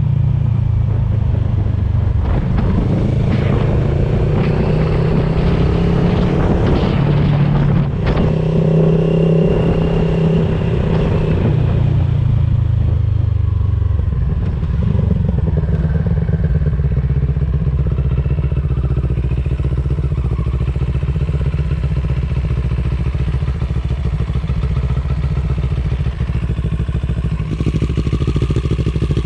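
CFMOTO 700CL-X's parallel-twin engine running through an aftermarket IXRACE DC1 carbon exhaust. The revs rise and fall for the first twelve seconds or so, then drop and settle into a steady low running note.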